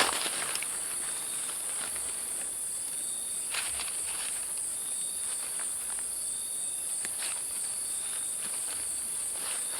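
Steady high-pitched insect chorus, with a fainter intermittent trill underneath and a few light rustles or steps, about three and a half seconds in and again about seven seconds in.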